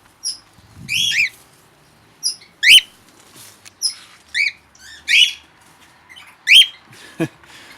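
Small aviary parrots calling: about nine short, shrill chirping calls, each bending up and down in pitch, spaced irregularly less than a second apart.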